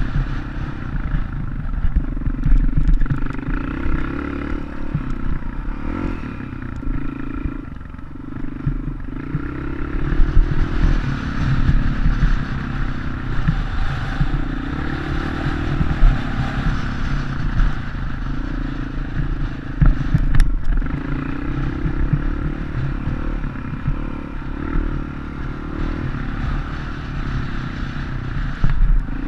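Dirt bike engine running continuously, its pitch and loudness rising and falling as the throttle is opened and closed.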